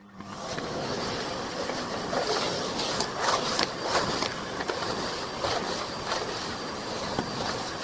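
Miele Blizzard CX1 bagless cylinder vacuum cleaner switching on and running up to full speed within about half a second, then a steady rushing whoosh of its suction. Scattered sharp clicks come through it in the middle.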